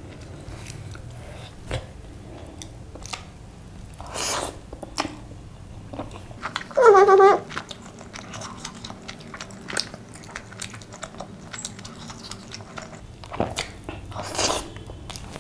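Close-up chewing and wet mouth clicks of a person eating chicken biryani by hand. There is a brief hummed vocal sound about seven seconds in, and two short louder rustles, about four and fourteen seconds in.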